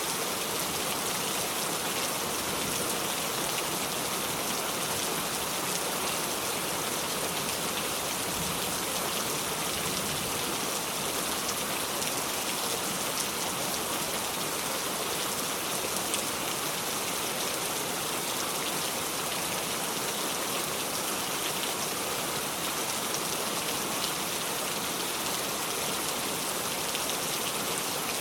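Steady heavy rain falling on a surface, a dense even hiss with scattered drop ticks and no thunder.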